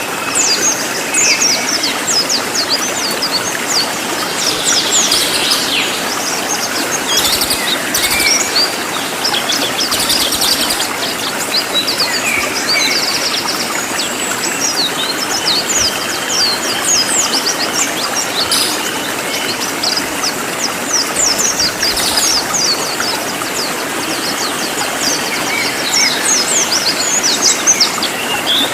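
Cililin songbird singing in dense, rapid, high-pitched chirps and short trills, over a steady hiss of background noise.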